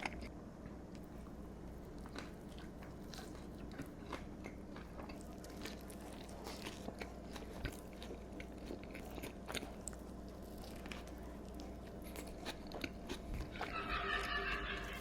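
Close-up chewing and biting of Burger King fast food, with soft crunches and wet mouth clicks spread irregularly. Near the end a short squeaky, pitched sound rises above the chewing.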